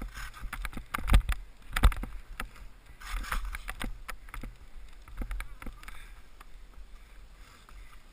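Skis running through powder snow, with irregular knocks and swishes and low wind buffeting on a GoPro's microphone, growing quieter toward the end.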